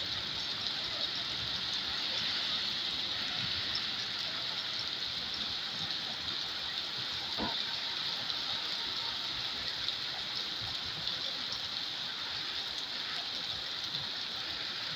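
Steady rain falling, an even hiss with scattered faint drop ticks and one sharp click about halfway through.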